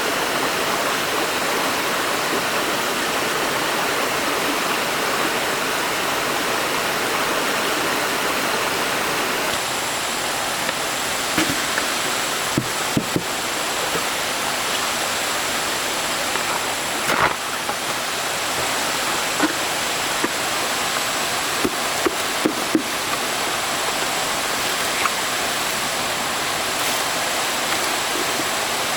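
Stream water rushing steadily. About a third of the way in, scattered sharp knocks begin and a thin, steady high tone joins.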